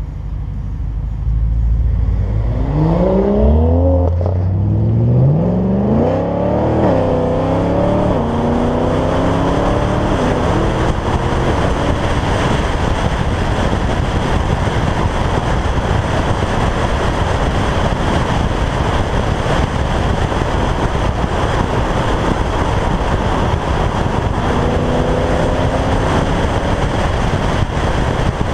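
Car engine accelerating hard through several gears, its pitch climbing and dropping at each shift over the first ten seconds. After that, steady rushing wind and road noise on the outside-mounted camera covers most of the engine sound, which rises again briefly near the end.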